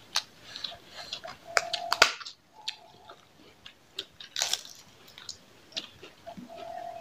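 Close-up eating sounds: chewing and mouth clicks, with crunching as a crisp fried snack is bitten, loudest about four and a half seconds in.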